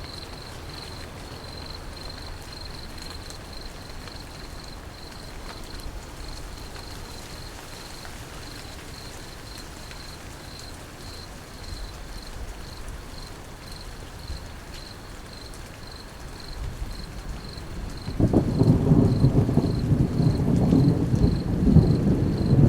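Steady rain during a thunderstorm, with a faint high-pitched pulsing throughout; about eighteen seconds in, a loud low rumble of thunder sets in and keeps going.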